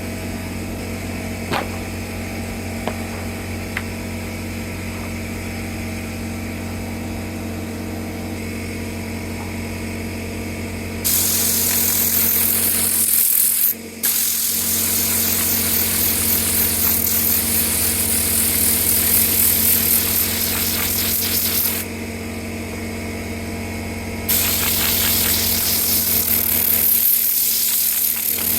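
A machine's motor running steadily, joined about eleven seconds in by a loud rush of hissing air that drops out for a moment, stops for about two seconds later on, then starts again.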